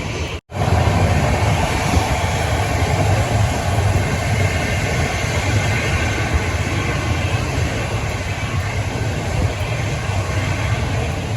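Jet airliner engines running, a steady roar with a heavy low rumble, cut off for a moment about half a second in and then continuing unchanged.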